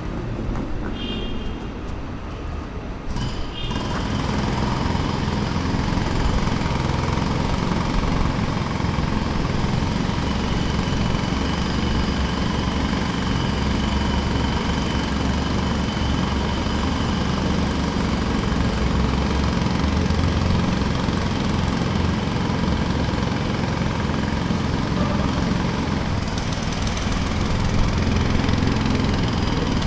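Jackhammer running steadily with a rapid, dense rattle, coming in fully about four seconds in.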